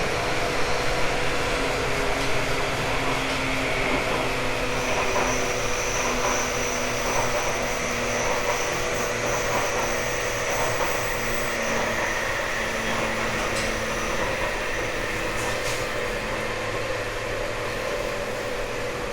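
Running noise inside a JR 189 series express electric motor car: the hum of its MT54 traction motors and gearing over steady wheel and rail noise. A faint high whine comes in about five seconds in and fades out before the end.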